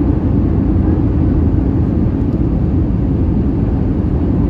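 Steady low rumble of an Airbus A320 in flight, heard from inside the cabin: engine drone and airflow noise, even and unbroken.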